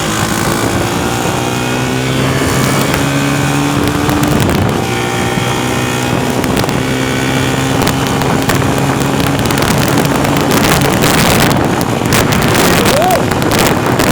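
A vehicle engine running at a steady cruise, its pitch drifting slightly with speed, with wind noise buffeting the microphone and a few crackling bursts of wind near the end.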